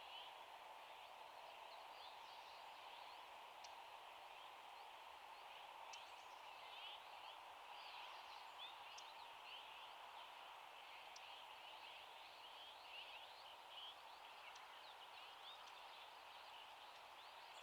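Faint, dense chirping of small birds: many short, high calls overlapping throughout, over a steady hiss of outdoor background noise.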